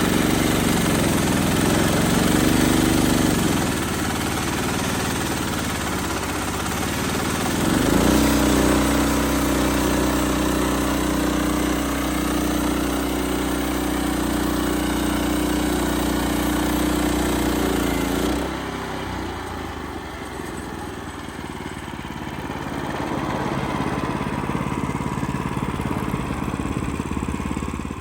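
Wood-Mizer LX25 band sawmill running on its 9.5 horsepower motor, with the band blade sawing through a pin oak log. The engine note shifts several times: it settles into a steadier, harder-working run about eight seconds in, then drops back and runs quieter from about eighteen seconds in.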